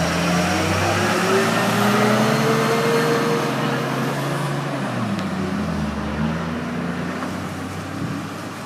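Street traffic: a motor vehicle engine under a steady road noise haze. Its pitch climbs over the first few seconds and drops away about five seconds in.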